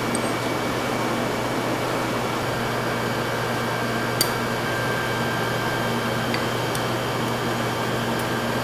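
Steady whirring machine noise with a constant low hum, like a fan or air-conditioning unit running, with a single faint click about four seconds in.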